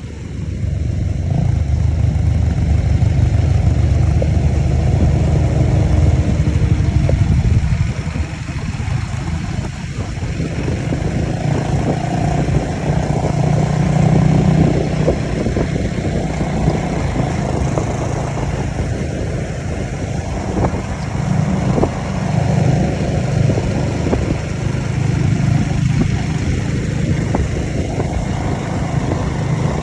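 Off-road motorcycle engine running under way, its revs rising and falling over and over.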